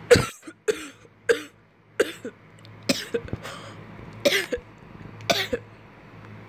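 A person coughing repeatedly: short, sharp coughs, about eight of them, some coming in quick pairs.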